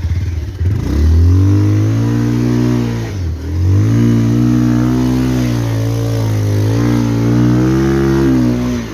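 Motorcycle engine revving hard under load, climbing a steep, rough track. The revs rise about a second in, waver, drop briefly about three seconds in and again near the end.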